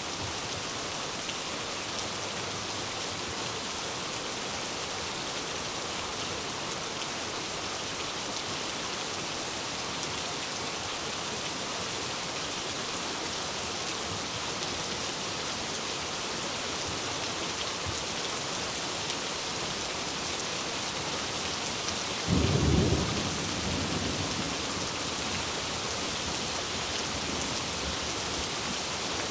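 Steady rain falling, an even hiss of drops throughout. About three-quarters of the way through, one brief deep thump rises well above the rain and fades within a second.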